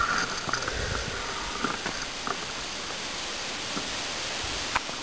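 Steady rushing noise of riding a bicycle, with a few short clicks, the sharpest near the end.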